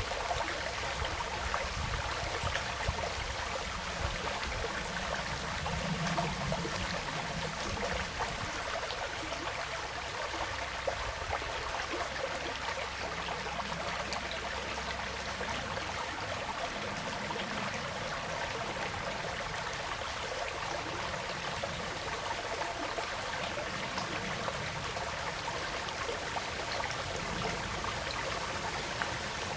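A forest stream flowing steadily, an even rush of running water with no pauses.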